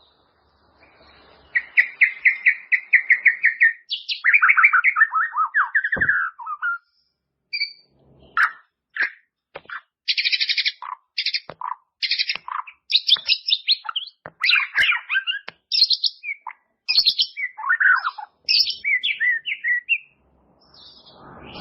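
White-rumped shama singing a varied song: a fast trill, then falling warbled phrases, a short pause and a run of loud, short whistled phrases.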